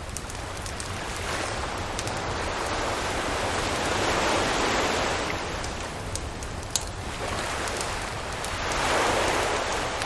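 Ocean waves washing onto a beach, the surf swelling and fading twice, around the middle and near the end. Scattered sharp pops and crackles from a campfire sound over it, one louder pop a little after the middle.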